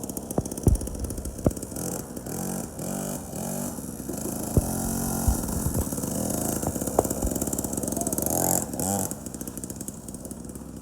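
A 50cc youth motorcycle engine running and revving, its pitch rising and falling as it rides, with a few sharp clicks along the way.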